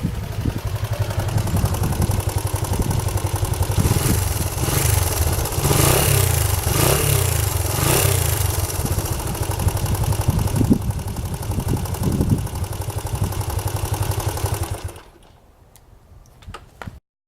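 Honda XL125S single-cylinder four-stroke engine running after a cam chain tensioner replacement. It is revved up briefly around the middle, then shut off about 15 seconds in, leaving only a few faint clicks.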